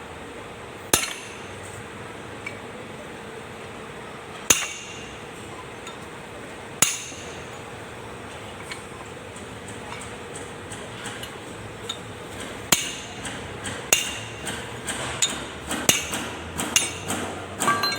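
Hammer blows on metal, each with a short metallic ring: a few single spaced strikes, then quicker tapping that builds to about two strikes a second near the end.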